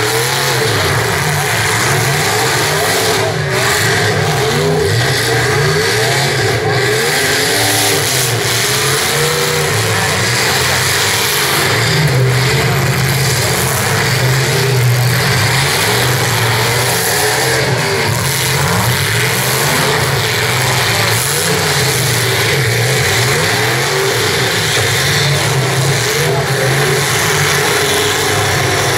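Demolition derby cars' engines revving hard, several at once, their pitch rising and falling over and over as the drivers push and ram each other in the dirt arena.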